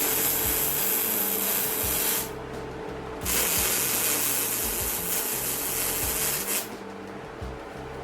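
Arc welding on steel in short runs: a steady hiss that starts and stops abruptly, once at about two seconds in and again at about three seconds in, running on until nearly seven seconds in.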